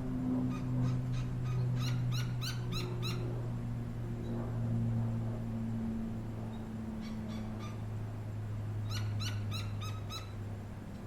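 Gila woodpecker calling in two runs of sharp, rapidly repeated notes, the first at the start and the second past the middle, over a steady low hum.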